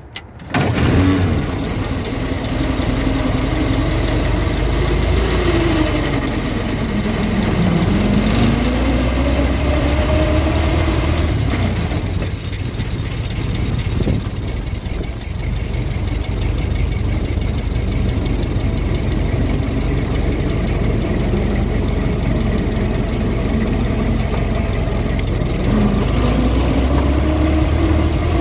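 Ford Model T's four-cylinder engine running as the car drives along, starting abruptly about half a second in, its pitch rising and falling with speed. It is a little quieter through the middle and louder again near the end.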